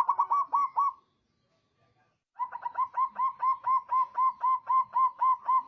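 Zebra dove (perkutut) singing: a short run of quick coos, a pause of about a second and a half, then a long even run of rapid coos, about five a second.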